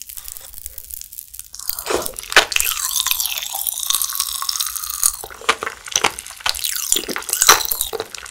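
Close-miked chewing of a piece of fruit jelly coated in candy crumbs: wet squishing with dense crunching and crackling. It starts about a second and a half in, with a few sharper snaps.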